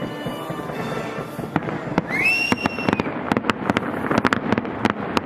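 Fireworks going off in a quick string of sharp bangs and crackles that come thicker in the second half, over show music.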